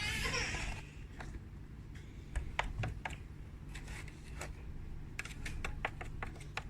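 A short burst of noise at the start, then scattered light clicks and taps that come faster and closer together near the end.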